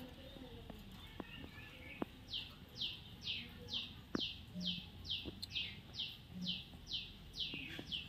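A bird calling a steady run of short, high, falling chirps, about two or three a second, beginning about two seconds in, with a few faint clicks before it.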